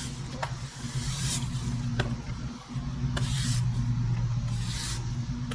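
A steady low mechanical hum, like an engine running, that dips briefly about two and a half seconds in. Three sharp clicks and a few short hissing rushes sound over it.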